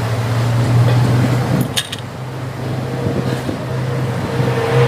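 Steady low mechanical hum with workshop background noise, and one sharp short click about two seconds in.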